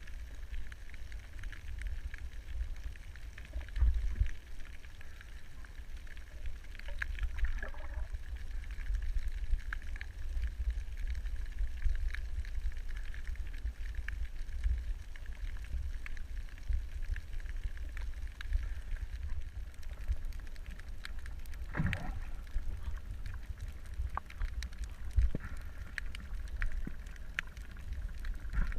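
Muffled low rumble of an underwater recording through a camera housing, with scattered clicks throughout and two short gurgling bursts, one about seven seconds in and a louder one about twenty-two seconds in.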